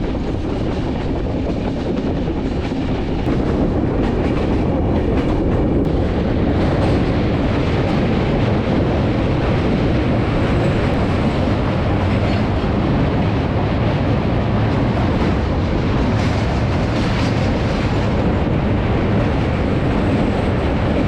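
Passenger train running steadily with a loud, continuous rumble of wheels on rails, heard from inside the carriage, as it crosses the bridge over the Padma (Ganges) river.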